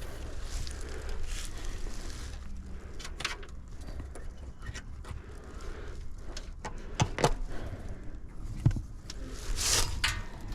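Scattered clicks, knocks and scrapes of hand and tool work over a low steady rumble, with a short hiss near the end.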